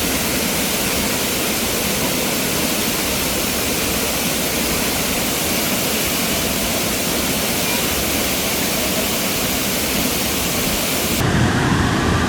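Waterfall: a steady, loud rush of falling water. Near the end it switches abruptly to a lower, duller rumble.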